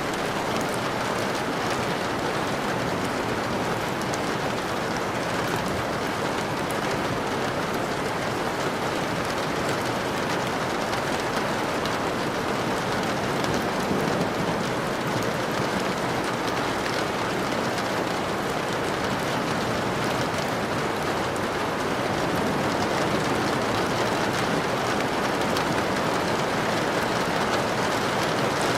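Rain falling steadily, an even hiss flecked with fine drop ticks, without change or break.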